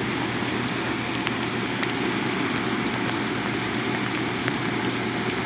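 Steady rain with a few sharp drop ticks, over the rush of fast-running water below a dam spillway.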